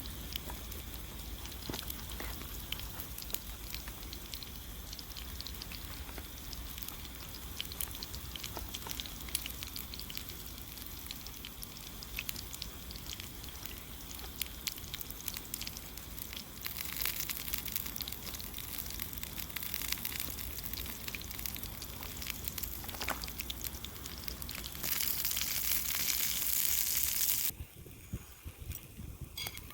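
Crackling and sizzling over a campfire: a steady patter of small pops over a hiss. The hiss swells louder twice in the second half and then cuts off abruptly.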